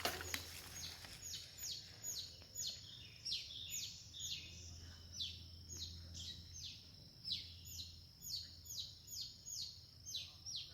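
Birds chirping in a rapid, continuous series of high, falling notes, about two or three a second, over a faint low steady hum.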